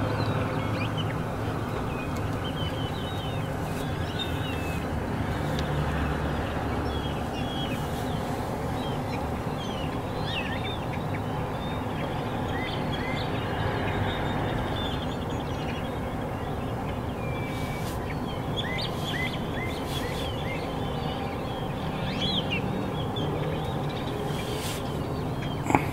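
Small birds chirping, many short high calls scattered throughout, over a steady low background noise. A few faint clicks.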